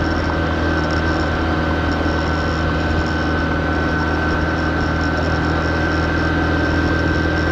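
Honda CB125F's single-cylinder engine running steadily at low revs, as a new engine being run in, with an even tone that holds through the whole stretch.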